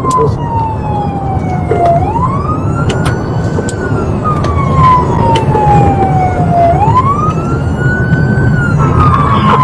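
Emergency vehicle siren in a slow wail, climbing quickly then falling slowly about every four to five seconds, over a steady low rumble of road and engine noise.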